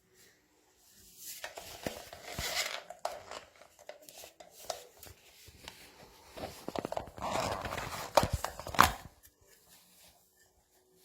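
Handling noise: rustling and scraping with sharp clicks and knocks in two spells, the louder near the end with a few distinct knocks.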